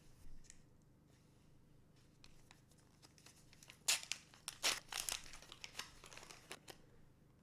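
Trading card booster pack wrapper crinkling and tearing open by hand. A quick run of sharp crackles starts about four seconds in and lasts a couple of seconds.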